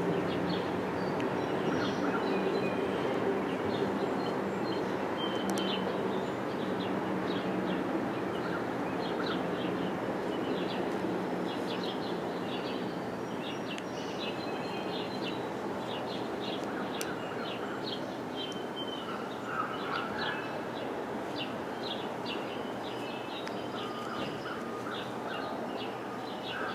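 Small birds chirping over and over, short high calls, above a steady background hiss.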